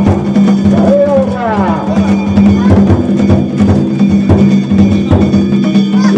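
Danjiri festival float's hayashi: taiko drum and metal gongs struck over and over in a dense rhythm, with voices calling and chanting over it.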